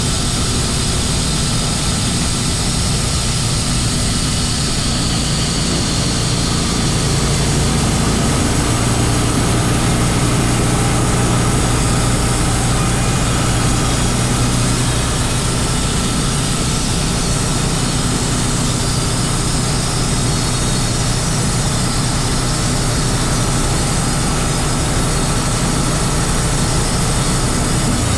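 Engine running steadily at constant speed, a low even hum.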